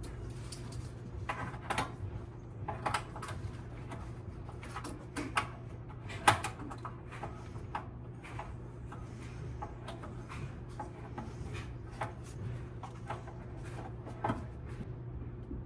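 Irregular clicks and knocks of hand work over a steady low hum, with the loudest knock about six seconds in.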